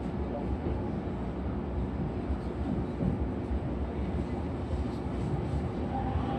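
Electric commuter train running slowly, heard from inside the car: a steady low rumble of wheels and running gear under a faint constant hum. A motor whine comes in near the end.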